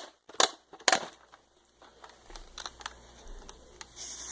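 Sharp plastic clicks from a Nerf Dart Tag blaster being worked: three loud clicks in the first second, then fainter ticks and handling noise.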